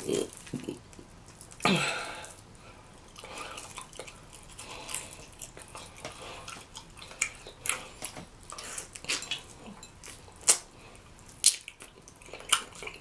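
Close-miked eating of rotisserie chicken dipped in cheese sauce: wet chewing and scattered lip-smacking clicks, with a brief murmur of the voice about two seconds in.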